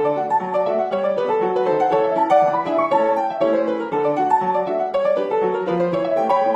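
Piano music playing a quick, continuous run of notes that step up and down.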